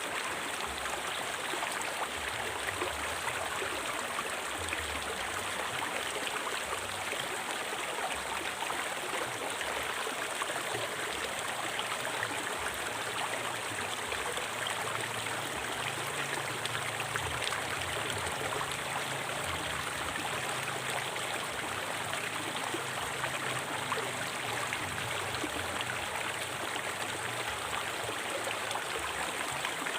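River water flowing and splashing over stones, a steady rushing sound with no change over time.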